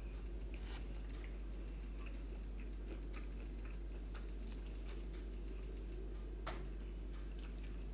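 A person quietly chewing a mouthful of air-fried chickpeas with rice and spinach, with a few faint clicks of a fork against the bowl, the clearest about six and a half seconds in, over a steady low hum.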